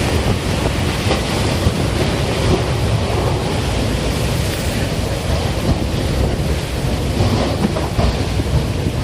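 Tornado winds buffeting the microphone: a loud, steady low rumble with a hiss of wind-driven rain.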